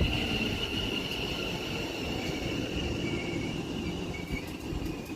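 West Midlands Railway Class 730 electric multiple unit running into the platform and slowing. A steady high-pitched squeal sits over a low rumble, and the whole sound slowly fades.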